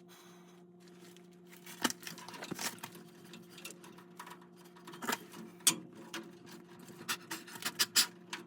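Irregular clicks, taps and light scrapes of tools and small metal parts being handled, over a faint steady hum.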